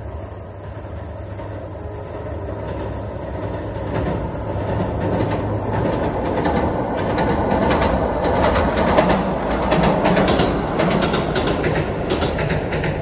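JR Central KiHa 25 diesel railcar crossing a long steel girder railway bridge. The rumble of wheels and engine builds up, with a rapid clatter of wheels over rail joints from about four seconds in. It is loudest around nine seconds, then eases a little near the end.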